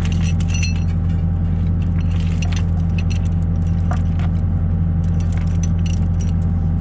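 Skid steer engine running steadily, with a chain clinking and rattling in short metallic clicks as it is hooked on to lift an old cattle grate.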